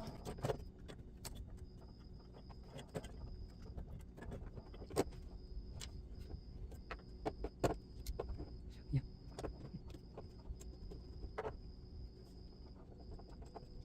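Irregular small clicks and taps of model-locomotive parts being handled and taken apart by hand, with a faint high-pitched tone that comes and goes.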